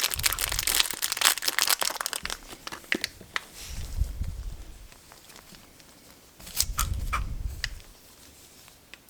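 Wrapper of a surprise eraser packet crinkled and torn open by hand. Dense crinkling for the first couple of seconds gives way to scattered light clicks and a few dull handling bumps.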